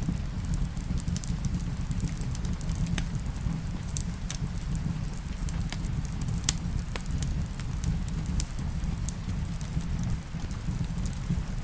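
Wood fire crackling in a fireplace, with irregular sharp pops and snaps over a steady low rumble, mixed with steady rain.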